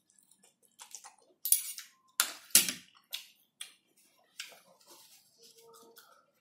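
Close-up mouth sounds of a person chewing a mouthful of instant noodles: wet smacks and clicks, several of them sharp and loud between about one and a half and three seconds in. A fork and spoon are set down on the plate.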